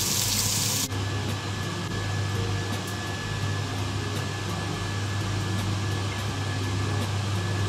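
Beef sizzling as it fries in a pan for about the first second, cut off abruptly; then a steady machine hum with a faint high whine.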